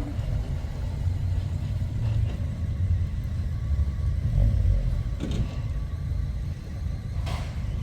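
Car engine running with a low rumble, with a short sharp knock near the end.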